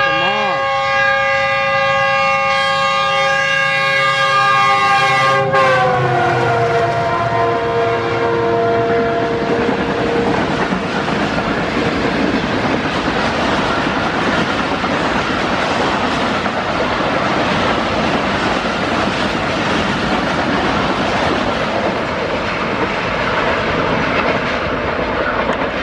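A Pakistan Railways diesel locomotive's multi-tone horn sounds continuously as the express approaches at speed. The chord drops in pitch as the locomotive passes, about five seconds in, and dies away by about ten seconds. Then the passenger coaches rush past with a steady clatter of wheels on rail joints.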